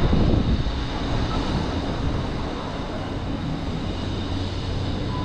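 Steady rumble of road traffic, with vehicle engines running close by.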